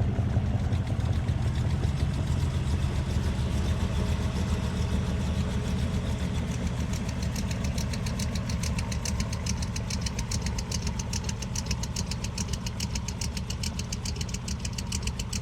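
Classic Ford Mustang V8 idling steadily, with an even, rapid beat of exhaust pulses that comes through more sharply partway through while the sound eases off slightly.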